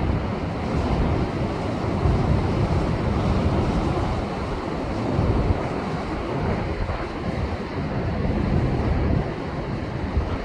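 Heavy post-typhoon surf surging and breaking against coastal rocks: a continuous low rumble that swells and eases every few seconds, with wind buffeting the microphone.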